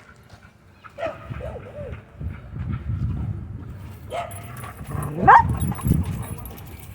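A dog growling and whining during rough play-wrestling, with a sharp rising yelp about five seconds in.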